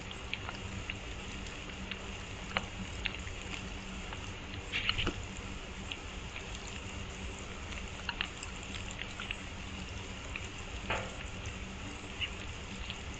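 Steady light rain, with scattered drops tapping sharply every second or so.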